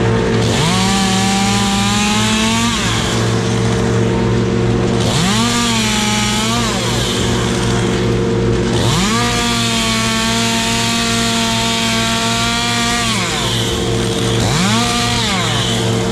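Chainsaw revved up to full speed four times, held for one to four seconds each time, then dropping back to idle, over a steady engine drone.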